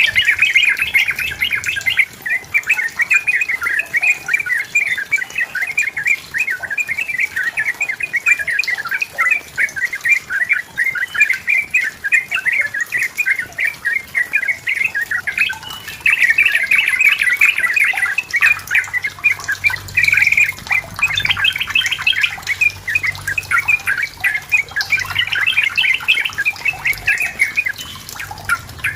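Sooty-headed bulbul (trucukan) singing in fast, continuous chattering phrases.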